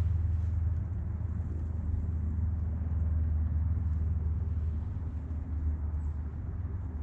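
Low, steady, fluttering rumble of wind buffeting the microphone.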